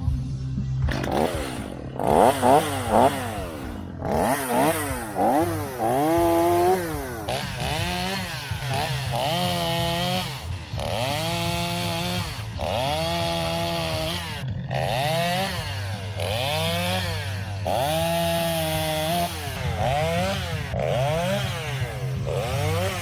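Vintage two-stroke chainsaw running under load, its engine pitch repeatedly dropping and climbing back up, about once a second, as the chain bogs and recovers in the wood.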